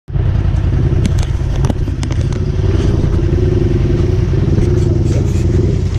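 Four-wheel-drive vehicle's engine running steadily at low revs, with a few sharp clicks and knocks in the first two seconds.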